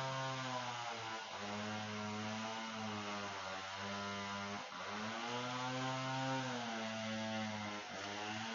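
A low human voice humming or intoning long, drawn-out notes, each a few seconds long with a slow rise and fall in pitch and short breath breaks between them, as in a quiet prayerful chant.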